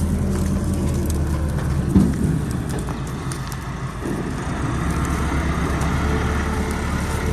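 Tractor engine running steadily, driving a wheat thresher, under the dense rushing noise of the threshing machine. A single sharp knock stands out about two seconds in, and the sound eases briefly a little after three seconds before picking up again.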